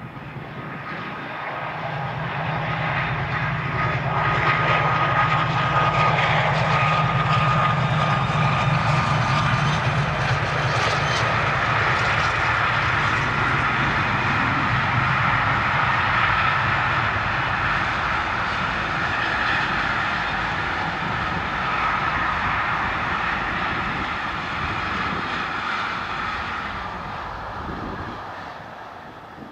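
Two MLW MX627 diesel locomotives working at full power as they haul a container freight train past, their engines' low, steady throb building for the first few seconds. After about fifteen seconds the throb gives way to the steady rumble of the container wagons rolling by, which fades near the end. A thin high whine can be heard from about four to ten seconds in.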